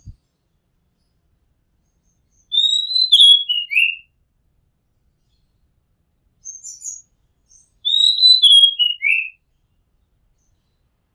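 Oriental magpie-robin singing: the same short phrase twice, about five seconds apart, each a run of clear whistled notes stepping down in pitch, with a few faint high notes in between.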